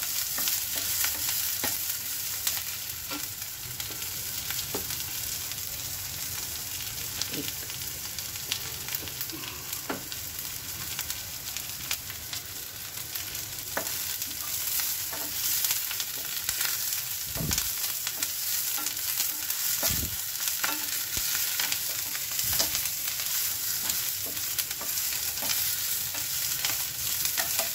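Chopped onions with curry leaves and mustard seeds sizzling in hot oil in a stainless steel pan, stirred with a wooden spatula that scrapes and clicks against the pan.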